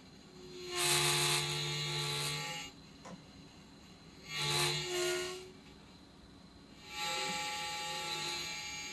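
DJI Zenmuse Z-15 gimbal's motors buzzing in three bursts of one to two seconds each, steady tones over a high hiss. It is a fault that comes on after the gimbal initialises, on every startup.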